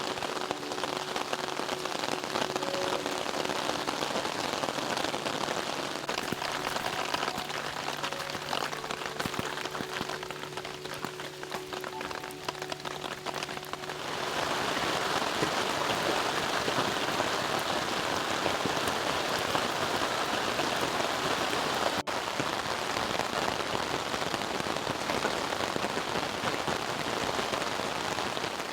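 Steady rain falling and pattering in a forest, growing denser and louder about halfway through.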